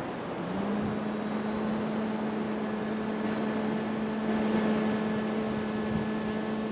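A person humming one steady low note through closed lips: the Bhramari 'honeybee' breath of pranayama, held through a long out-breath. The hum starts about half a second in with a short upward slide, over a steady rushing background noise.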